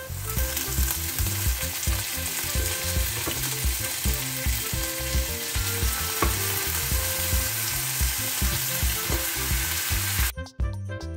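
Diced onions and pork hocks sizzling in hot oil in a frying pan. The sizzle cuts off abruptly near the end, leaving background music with a steady beat that runs under it throughout.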